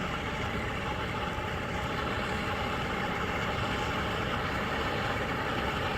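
Fires of wood and pellets burning in rocket stoves, a steady rushing rumble from the draft through the burn chambers.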